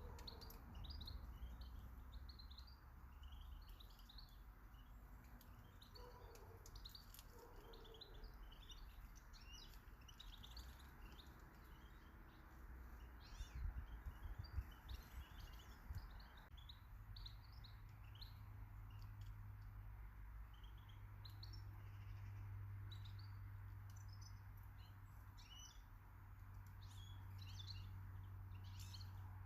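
Small garden birds chirping faintly, many short high chirps and twitters in quick succession throughout, over a low rumble and, from about halfway, a steady low hum.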